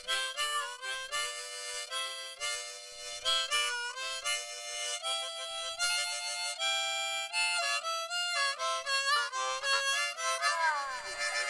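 Harmonica music: a lively melody of quickly changing notes, often sounded as chords.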